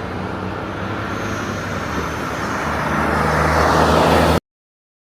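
A heavy truck's engine running with road noise, growing steadily louder as it draws near, then cutting off suddenly.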